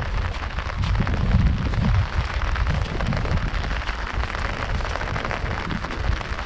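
Heavy rain falling on an umbrella overhead: a dense, steady patter of drops, with a low rumble underneath.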